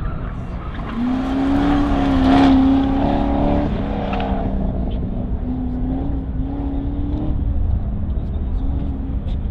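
Sports car engine at speed on an autocross course: the engine note climbs under acceleration, loudest about two and a half seconds in, then drops abruptly in pitch near four seconds. After that it runs on at a wavering pitch as the car works through the cones.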